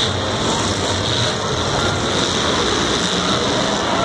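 Several demolition derby cars' engines running together in the arena, a steady loud mechanical din.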